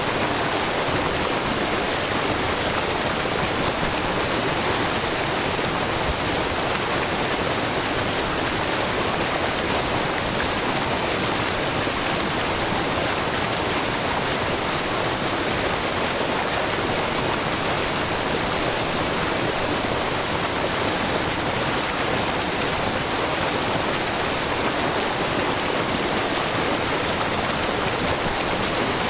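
Shiraito Falls, a low, wide curtain of spring water falling in many thin streams down a rock face, with a babbling brook. It makes a steady, unbroken rush and splash of water.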